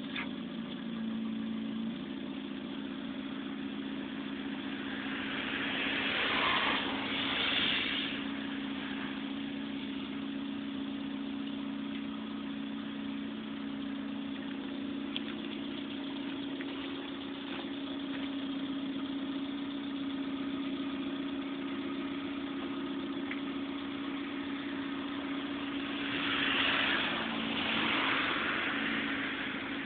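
Suzuki Swift engine idling steadily, revved up twice in short double blips, about six seconds in and again near the end.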